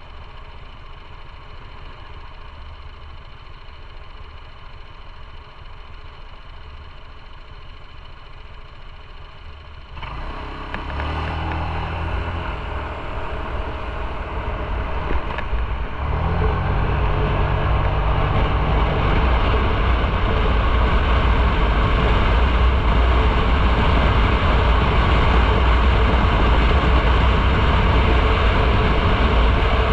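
Motorcycle engine idling with a low rumble, then pulling away about ten seconds in, the revs stepping up through the gears. From about sixteen seconds on, the engine runs under a loud, steady rush of wind and road noise while riding.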